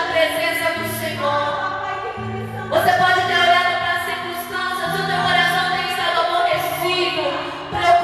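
Worship song: voices singing long held notes over a keyboard-like accompaniment with a steady bass line that shifts notes every second or two.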